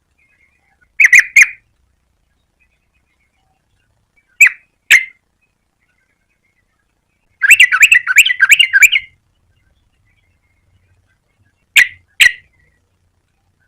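Yellow-vented bulbul calling: short bright notes in pairs and triplets, with a rapid chattering run in the middle, separated by silent gaps.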